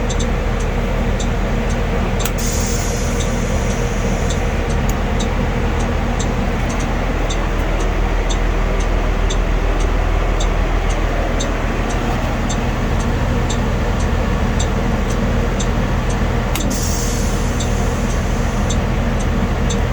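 Blue Bird school bus idling with a steady low hum, and the amber warning-light flasher clicking at a steady rate a little under twice a second. Two short bursts of hiss come about two seconds in and again near the end.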